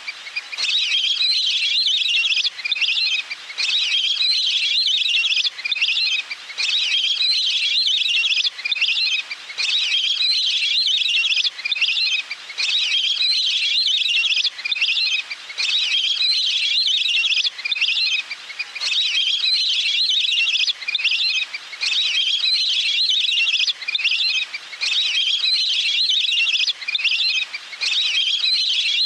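Wild duck calls played as a hunting lure: high, rapid chirping whistles in repeated bouts, each lasting a second or two with short pauses between.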